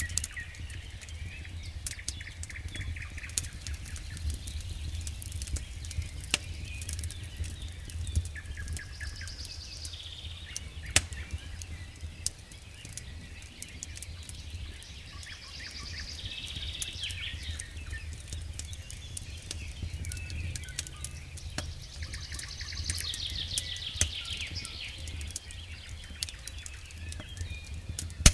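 Campfire crackling, with sharp pops scattered throughout, while songbirds sing short trills every several seconds over a low steady rumble.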